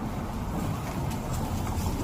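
Steady low outdoor rumble, with a few faint scattered ticks.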